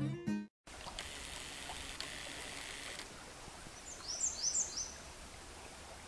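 Strummed acoustic guitar music cuts off about half a second in. Faint outdoor ambience follows, with a quick run of high, downward-sweeping bird chirps about four seconds in.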